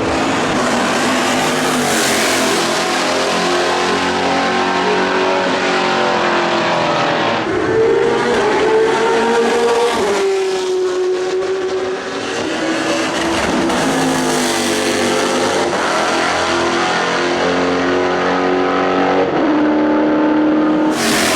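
Lola B98/10 prototype's Ford/Roush V8 racing engine at high revs, its pitch climbing and dropping several times as the car accelerates and slows, with a sharp fall in pitch about ten seconds in.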